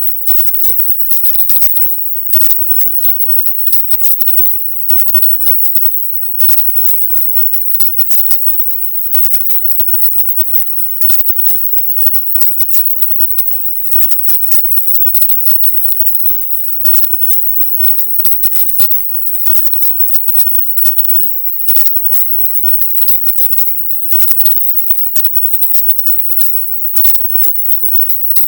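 Processed 'silent subliminal' audio track: a harsh, choppy electronic hiss chopped into rapid fragments with frequent short gaps. It is brightest at the very top of the pitch range.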